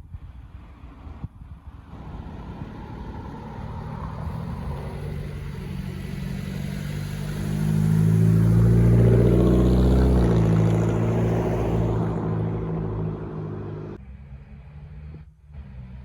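Honda Civic running with its muffler and resonator deleted, a deep exhaust note that grows louder to a peak about halfway through, then drops in pitch and fades away near the end.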